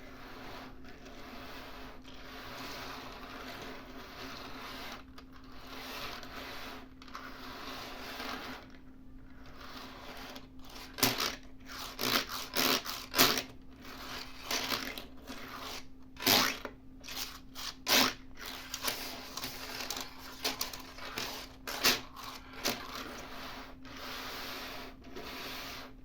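Hands working a 3D-printed transformable toy: its parts rub and scrape steadily, then from about halfway through give a string of sharp clicks and knocks as the pieces are moved and snapped into new positions.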